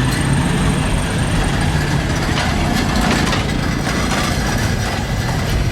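Car engines idling and running at low speed, a steady low rumble of several vehicles with some mixed street noise above it.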